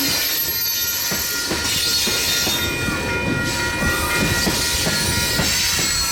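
Freight train cars rolling past with a steady high-pitched wheel squeal over a rumble, and irregular clacks of the wheels over the rail joints.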